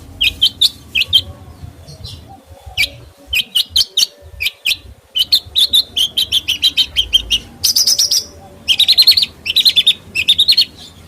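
A songbird singing: sharp chirps and fast trills of rapidly repeated notes, with a brief higher whistle about eight seconds in.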